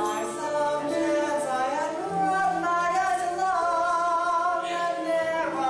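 Show-tune singing with accompaniment: long held sung notes with a slight waver over a steady low note.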